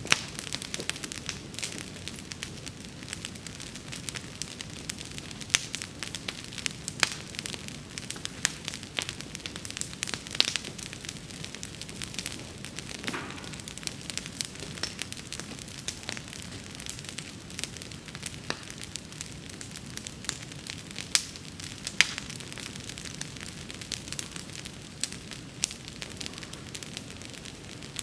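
Wood bonfire burning: a steady low rush of flame with frequent sharp crackles and pops from the burning wood, and a few louder snaps scattered through.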